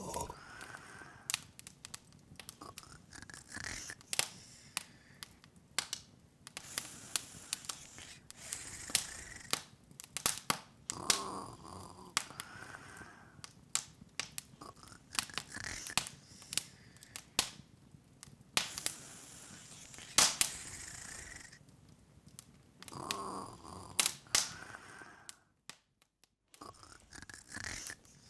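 Wood fire crackling, with irregular sharp pops and snaps over a soft hiss. The sound cuts out completely for about a second near the end.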